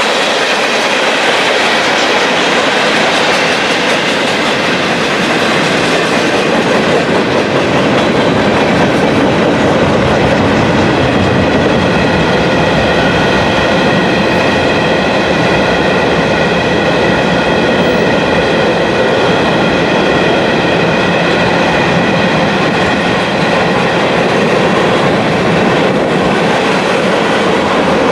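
Train passing close by: steel wheels rolling over rail joints with a steady rumble and clickety-clack. Several steady high tones from the wheels ride over the rolling noise through the middle stretch.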